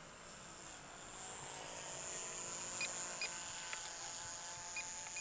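Small electric motor and propeller of a 450 mm mini SF260 RC plane in flight, a steady high whine that grows louder between one and two seconds in. A few short beeps sound around the middle and again near the end.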